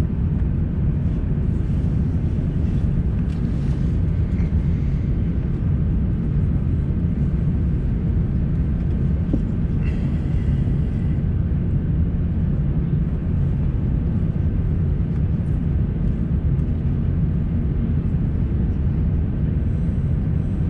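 Steady, loud cabin rumble inside an Airbus A350-900, from its engines and the airflow over the fuselage.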